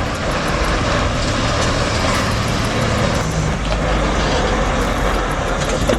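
Heavy vehicle running, a steady loud rumble mixed with broad road and engine noise.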